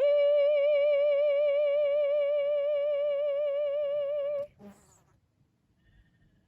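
A woman's singing voice holding one long final note with an even vibrato. The note cuts off after about four and a half seconds, and a short faint sound follows.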